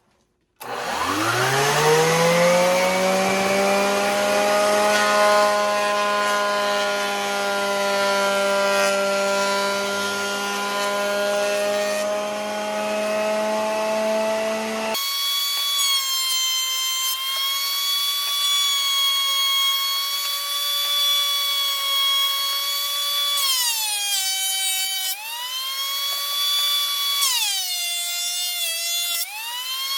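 An electric power tool spins up, its pitch rising over about two seconds, and then runs steadily. About halfway through it switches abruptly to a higher-pitched power-tool whine, whose pitch sags briefly three times near the end as the tool takes load.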